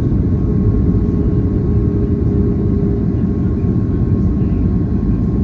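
Steady cabin noise aboard an Airbus A330-900neo in flight: a dense, low rumble of its Rolls-Royce Trent 7000 engines and the airflow, with a thin steady tone above it.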